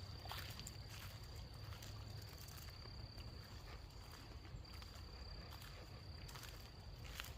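An insect, cricket-like, trilling on one steady high note that breaks off briefly midway and fades near the end, over a low rumble of wind. A few faint clicks come near the start and near the end.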